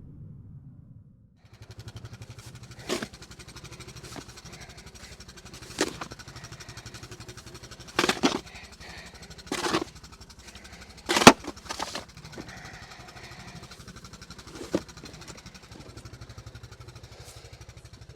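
Side-by-side utility vehicle's engine idling steadily with a fast, even firing rhythm, after a brief drop about a second in. Several sharp knocks and clacks sound over it, the loudest near the middle.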